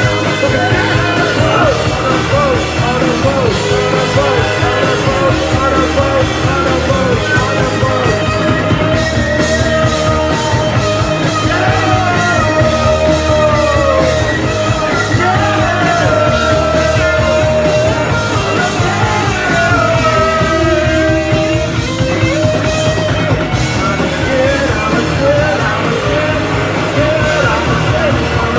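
Live punk-style rock band playing loudly, with a singer's voice over the band.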